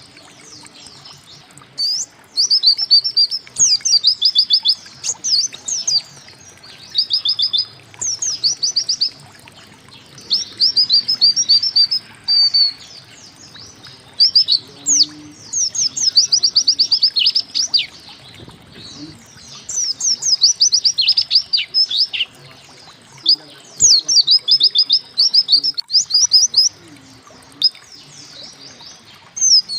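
Pleci (white-eye) singing: repeated loud phrases of rapid, high, steeply falling chirps, about a second or two each, with short pauses between.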